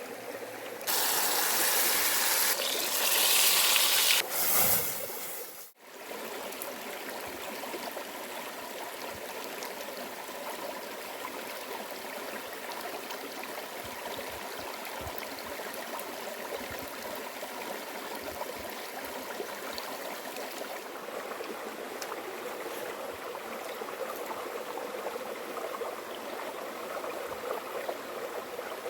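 Stream water flowing steadily. A louder, brighter rush of water lasts the first few seconds, then breaks off abruptly and gives way to a softer, even flow.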